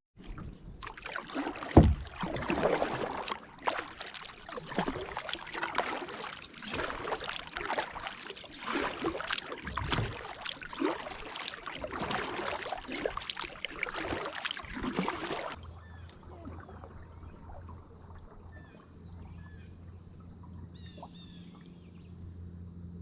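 Kayak paddle strokes splashing and dripping in creek water, with a sharp knock about two seconds in. The splashing stops abruptly after about fifteen seconds, leaving a quieter low steady hum with a few faint bird chirps.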